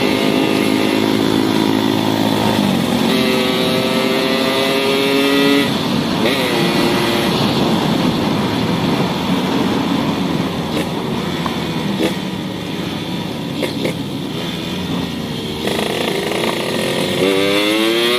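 Yamaha YT115 motorcycle engine running through a custom racing exhaust made from a used RX-King muffler. It is revved up and down, with the pitch stepping higher and lower, and it climbs again near the end.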